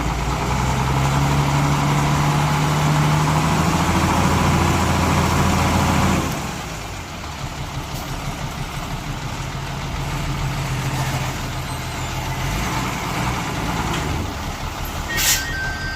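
Heavy diesel engine of earthmoving machinery running hard for about six seconds, then easing to a lower, steadier run. A brief high beep and click come near the end.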